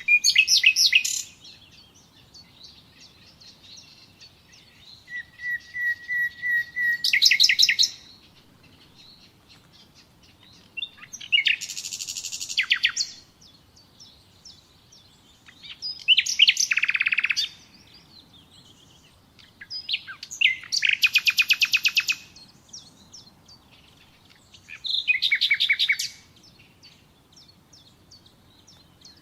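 Nightingale singing in about six separate phrases a few seconds apart, each a fast run of repeated notes. One phrase begins with a long, steady whistled note before breaking into rapid notes.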